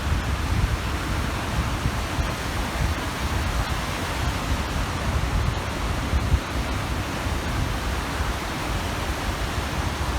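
Waves washing onto a reservoir shore in a steady, even hiss, with wind rumbling on the microphone.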